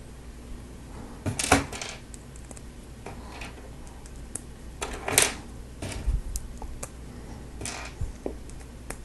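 Plastic Lego Technic pieces clicking and rattling as they are handled and pressed together: scattered clicks, the loudest about a second and a half in and again about five seconds in.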